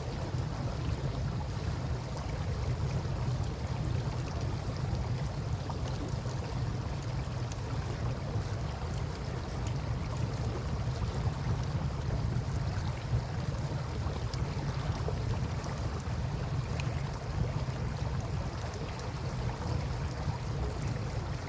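Wood campfire crackling with small scattered pops over the steady rush of river water. A low rumble runs underneath.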